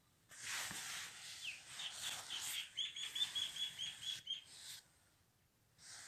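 A bird giving a rapid run of short, high chirps, about four a second for nearly three seconds, over a loud hiss that starts just after the opening and stops about five seconds in.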